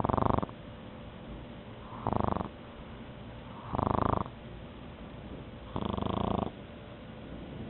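A sleeping pug snoring: four short snores about two seconds apart.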